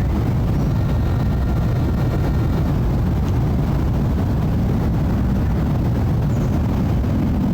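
Jet airliner engines rumbling steadily overhead, a deep, even roar with a faint whine above it in the first few seconds.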